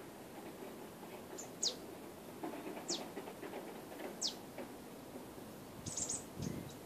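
A bird calling in woodland: three sharp, high whistles, each falling in pitch, about a second and a half apart, then a quick cluster of short high chirps near the end.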